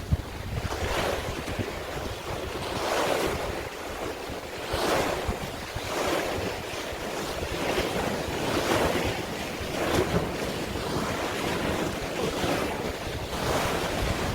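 Sea waves splashing in repeated surges every second or two, with wind buffeting the microphone.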